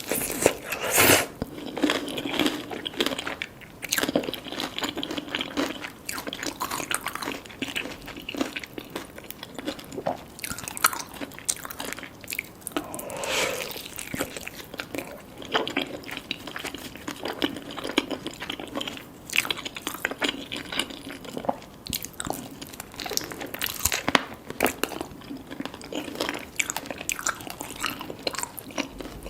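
Close-miked eating sounds: a person biting and chewing crispy fried chicken and spaghetti, with irregular crunches and wet chewing clicks.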